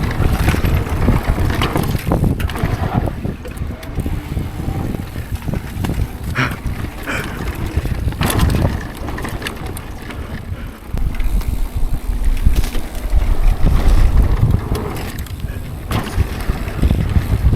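Mountain bike ridden fast down a dirt jump trail: wind buffeting the camera microphone, tyres rumbling over the dirt, and the bike knocking over bumps. It gets louder about two-thirds of the way through.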